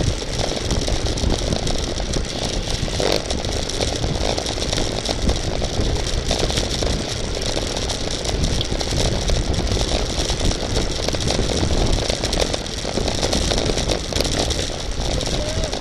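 Steady rush of wind on the microphone, with the road and drivetrain noise of a racing bicycle at speed.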